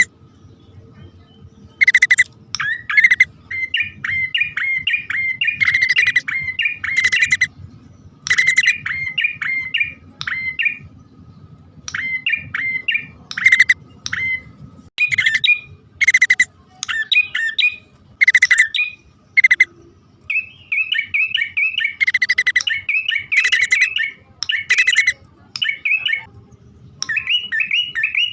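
Prinia (prenjak) lure calls, male and female: bursts of harsh, sharp chips alternate with quick runs of short rising-and-falling notes, in short phrases with gaps between.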